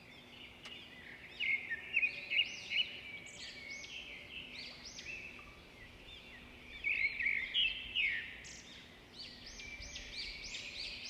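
Birds chirping: many short, arching calls overlapping one another, with louder flurries about a second and a half in, around seven seconds, and near the end.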